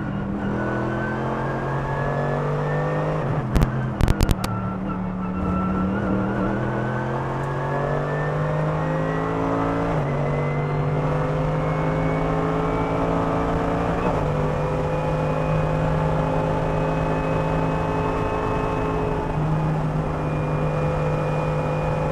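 Mercedes-AMG GT3 race car's 6.2-litre naturally aspirated V8 pulling hard under full throttle, its pitch climbing steadily and stepping down at each upshift, three times. About four seconds in, a short cluster of loud, sharp cracks cuts across the engine note.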